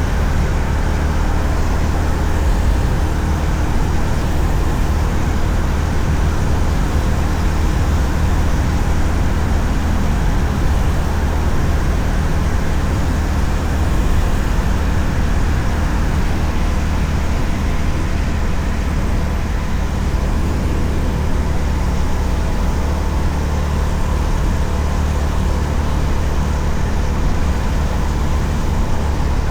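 Honda CB350RS's single-cylinder engine running steadily while riding at speed, under a heavy, even rumble of wind on the microphone.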